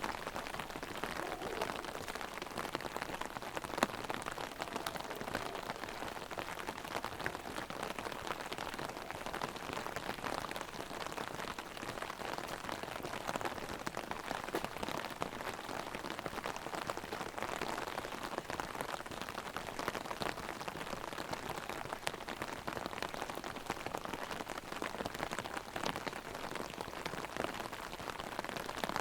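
Heavy rain falling on an umbrella held overhead: a steady dense patter with many individual drop hits on the fabric, one slightly louder hit about four seconds in.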